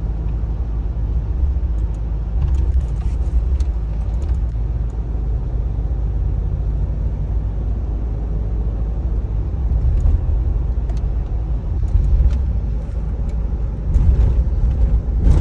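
GMC car being driven: a steady low road and engine rumble, swelling slightly a few times, with faint scattered clicks.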